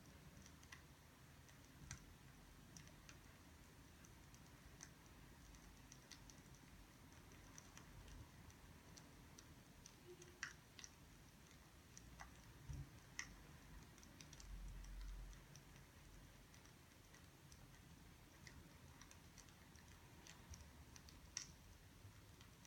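Faint, irregular crackles and pops of burning firewood, with a soft low thump about two thirds of the way through.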